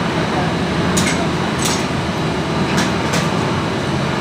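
Steady loud machinery noise with a low hum, broken by four sharp metallic clinks, two close together about a second in and two more near three seconds.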